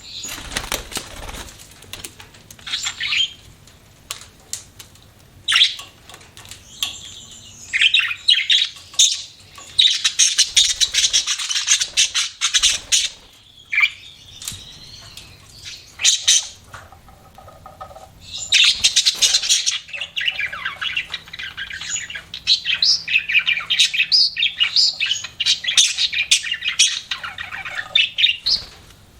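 Pet budgerigars chirping in irregular bursts, with several longer runs of rapid, dense chatter.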